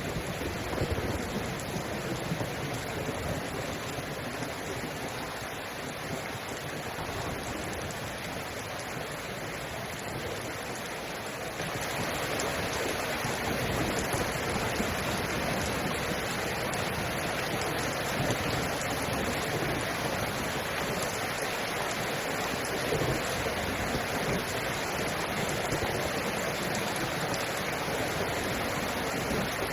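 Steady rainfall, an even hiss of falling water that grows louder about twelve seconds in.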